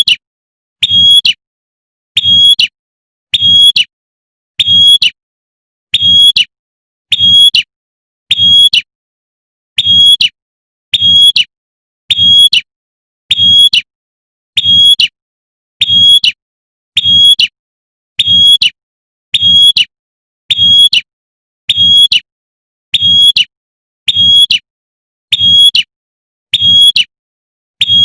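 Female prenjak (prinia) giving its sharp, short 'tembakan' call over and over, one call about every 1.2 seconds, high-pitched and loud, with one slightly longer pause near 9 seconds in. It is the call a female uses to call in males.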